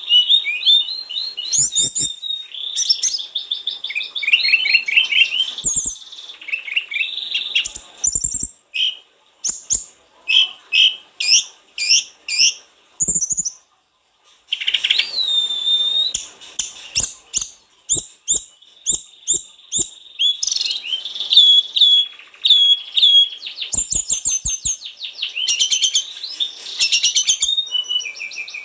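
Sulingan gunung (tledekan gunung) songbird singing a long, varied song of rapid high trills, chattering runs and short whistled glides, broken by a short pause about halfway.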